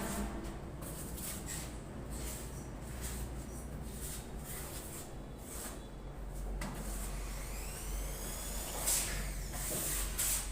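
Repeated scraping strokes of a plastering trowel spreading putty over a wall, each stroke a short swish. A faint gliding tone runs underneath near the end.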